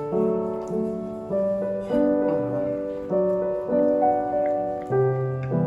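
Background piano music: gentle chords changing about every half-second to a second.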